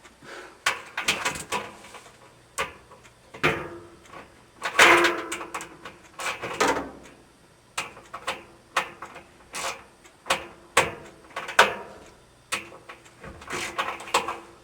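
Screwdriver tightening a baffle screw inside a Maytag dryer drum: a run of irregular clicks and scrapes, roughly one a second, with longer scraping about five seconds in and again around six to seven seconds in.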